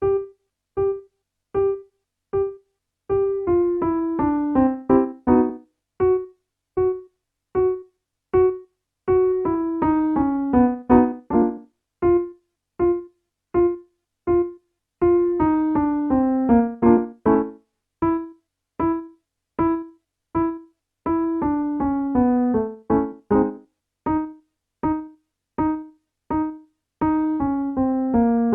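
Piano playing a vocal warmup accompaniment for a staccato-and-descend exercise: short detached notes repeated on one pitch, then a quick scale run falling in pitch. The pattern repeats about every six seconds.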